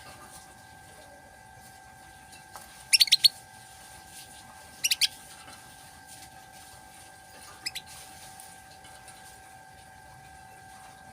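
Male canary giving three short bursts of sharp, rapid chirps about two seconds apart, the first of four quick notes and the last of two, over a steady faint hum.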